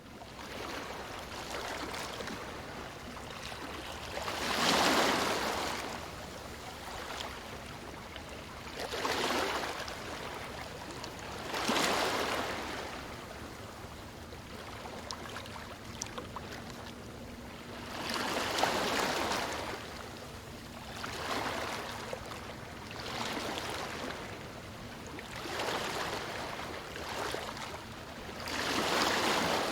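Ocean waves breaking on a beach: a surge of surf every few seconds, each swelling and fading over a second or two, with a steady wash of water between.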